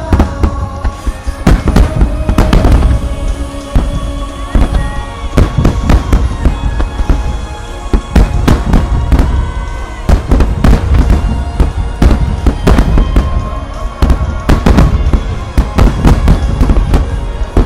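Dense barrage of aerial firework shells bursting: rapid, overlapping booms and crackles, several a second with no let-up. Music plays steadily underneath.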